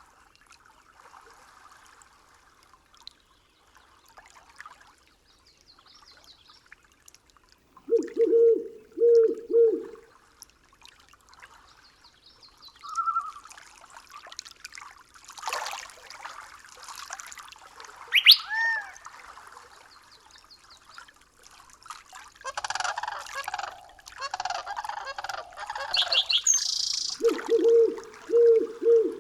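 Forest ambience of several wild bird calls: a low three-note call twice, rising whistles and chattering in the middle and latter part, over faint running water.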